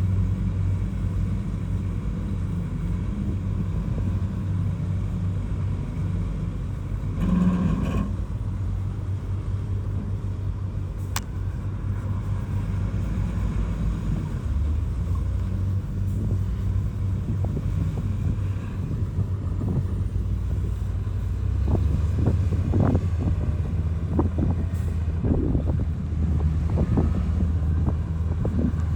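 Bulldozer's diesel engine running steadily under load, with a brief louder sound about seven seconds in and a series of knocks and clanks in the last several seconds as it works the soil.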